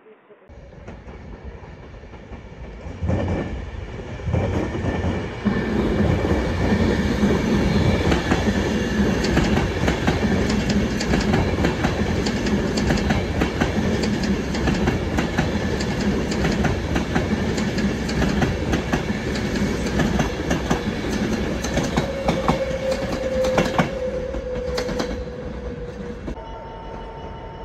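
Avanti West Coast Pendolino electric express passing close at speed: a loud rush of train noise that builds over the first few seconds, with the wheels clicking over rail joints and points. A short falling whine comes near the end, then the sound fades as the train draws away.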